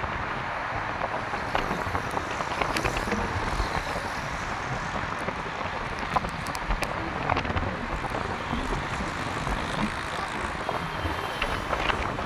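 Steady hiss of rain with many scattered drop ticks, mixed with the low rumble of traffic on a wet street.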